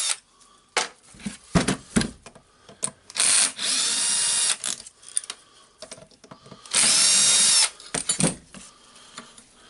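Cordless drill-driver spinning out screws from the jigsaw's plastic housing in two short runs, about a second and a half and then about a second, each a steady high whine. Small clicks and knocks of parts being handled fall between the runs.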